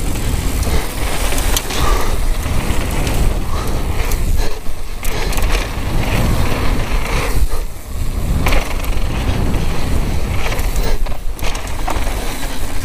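Downhill mountain bike ridden fast on a dirt trail: wind rumbling on the helmet-camera microphone over tyre noise, with chain and frame rattling and clicking on the bumps.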